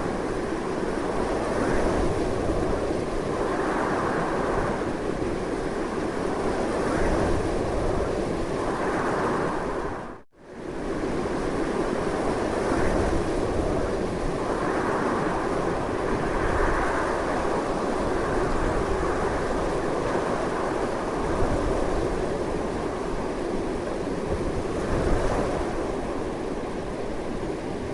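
Strong wind blowing continuously, swelling and easing in gusts every few seconds, with a brief dropout to near silence about a third of the way through.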